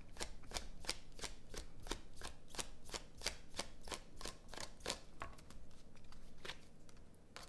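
Tarot cards being shuffled by hand: a steady run of quick card clicks, about three to four a second, that thins out and stops a little before the end.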